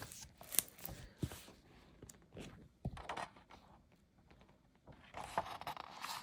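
Pages of a large hardcover book being turned and handled: several paper swishes and rustles, with small clicks and taps between them.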